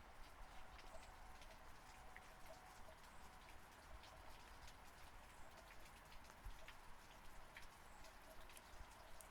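Faint, steady rain, with many separate drops ticking at irregular moments.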